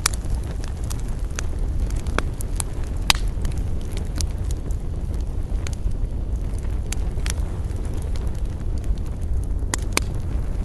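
Campfire burning: a steady low rumble with scattered crackles and sharp pops of burning wood, the loudest pop about three seconds in.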